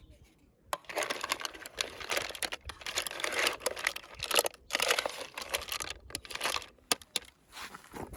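Bursts of crackling, rustling handling noise with a few sharp clicks, like something being crumpled or shifted about.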